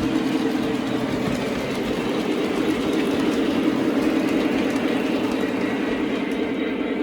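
Lionel O scale Kansas City Southern model train running along the track, a steady rolling rumble of wheels and motor.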